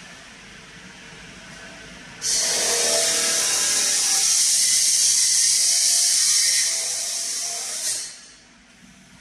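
A power tool running with a high-pitched whine and hiss. It starts suddenly about two seconds in, runs steadily for nearly six seconds, then winds down near the end.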